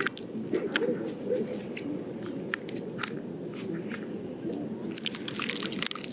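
Scattered clicks, crinkles and rustles as a tablecloth kite sail and wooden dowels are handled and fitted together.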